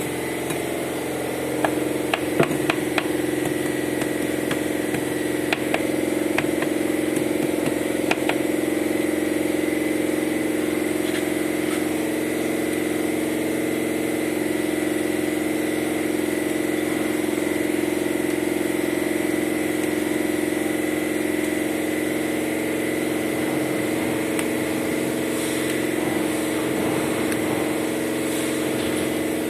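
A motor running steadily with a constant multi-toned hum. A few sharp taps or clicks come in the first several seconds.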